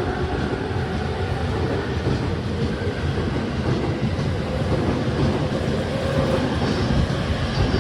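JR E231-500 series electric commuter train running past as it pulls out of the station: a steady loud rumble of wheels on rail, with clacking over rail joints and a faint held motor tone.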